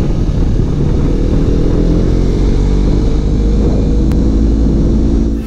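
Yamaha YZF-R3's parallel-twin engine pulling steadily as the bike accelerates through town, its note rising slowly with speed.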